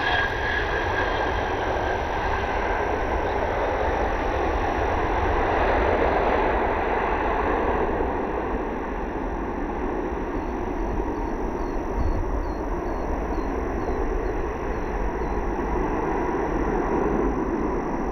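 Jet airliner engines: a steady rush of jet noise with a low rumble under it, swelling about six seconds in and again near the end as the aircraft passes.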